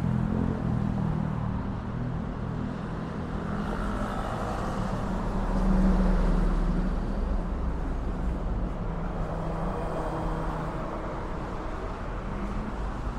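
Street traffic: a motor vehicle's engine running close by with a steady low hum, which swells loudest about six seconds in.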